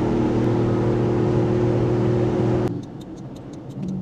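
Honda Acty kei truck's 660 cc engine running steadily, then stopping abruptly a little over halfway through, followed by a few faint clicks.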